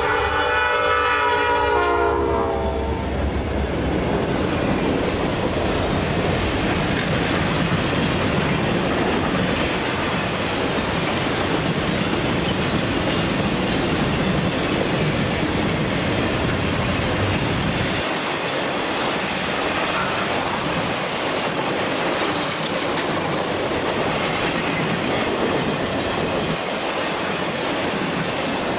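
A freight train's locomotive horn sounds a chord that ends about two seconds in. Freight cars then roll past with steady wheel clatter on the rails, and the low rumble drops away about two-thirds of the way through.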